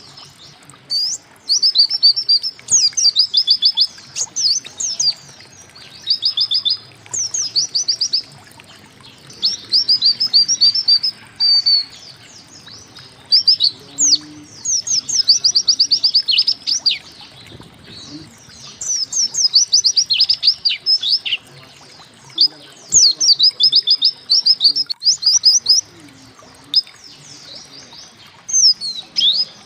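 White-eye (pleci) singing in repeated bursts of rapid, quick downward-sweeping notes, each burst about one to two seconds long with short pauses between them.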